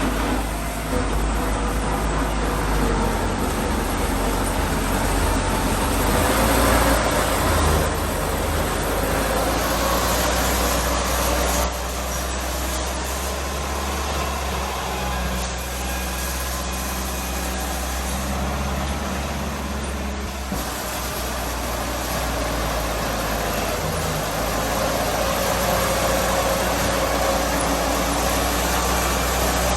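Diesel earthmoving machinery running steadily at work, its engine note shifting and dropping in level about twelve seconds in.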